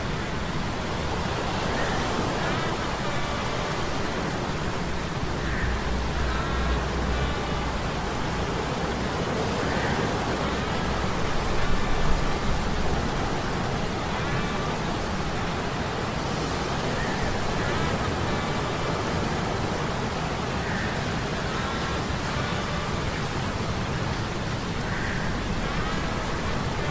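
Sea-storm ambience of steady rain and surf noise over a low hum of metal gears. The hum swells in the middle, with a louder surge about twelve seconds in, and faint short high sounds recur every few seconds.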